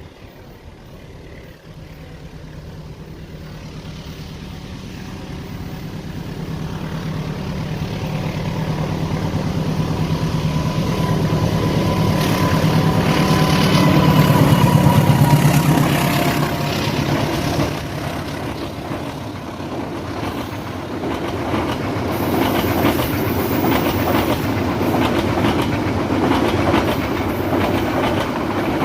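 Diesel-locomotive-hauled passenger train approaching and passing: the locomotive's engine drone grows louder to a peak about fourteen seconds in, then the carriages roll by with a steady clickety-clack of wheels over the rail joints.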